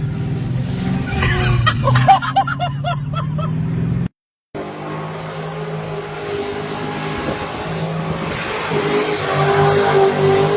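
Drift car's engine running hard while its tyres squeal and skid, with a string of short tyre chirps between about one and three seconds in. The sound drops out completely for a moment about four seconds in, then comes back to the engine and a long, louder tyre squeal near the end.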